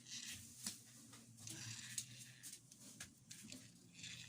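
Faint scattered clicks and rustling of toy trucks and cars being handled.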